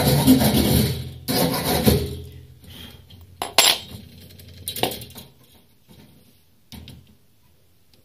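Rough scraping for about the first two seconds, in two bursts, then a few scattered metallic clinks and taps of tools and parts being handled during refrigerator repair work.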